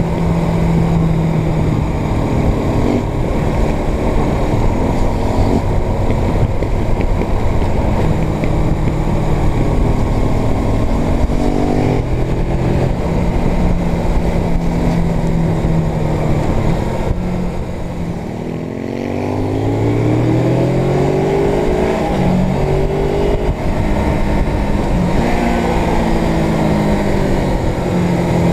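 Suzuki GS500's parallel-twin engine running under way, with a steady rush of wind and road noise. About two-thirds of the way through, the engine briefly eases off, then accelerates with its pitch rising, drops in pitch at a gear change and pulls up again.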